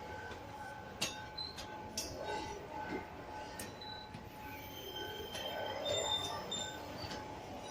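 Train rolling past with its wheels squealing on the rail, a steady thin metallic whine with higher squeals coming and going. A few sharp metal clanks sound in the first few seconds.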